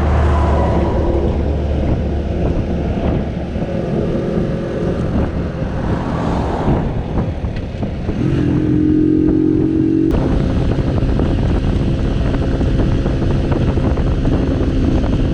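Barton Volcano 50cc moped engine running on the road, with wind rushing over the microphone and other vehicles going past. The engine pitch rises about two-thirds of the way through.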